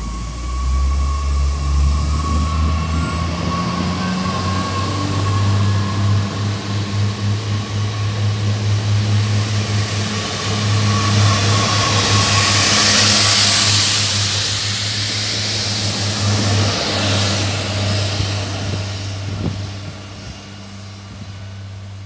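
A train running by, with a low pitched drone from its motors that steps up in pitch over the first few seconds. The rush of wheels and air builds to its loudest a little past the middle, then fades near the end.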